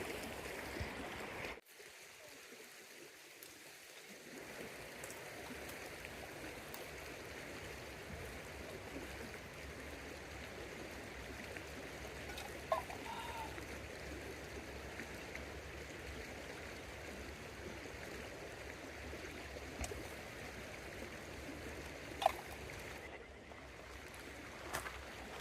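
River water flowing, a steady rushing murmur, with a few faint knocks now and then.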